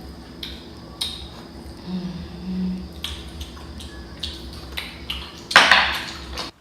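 Close-miked eating sounds from a seafood boil: wet clicks and smacks of chewing and of handling shellfish, with a couple of short low hums. There is a louder, noisier rustle about five and a half seconds in.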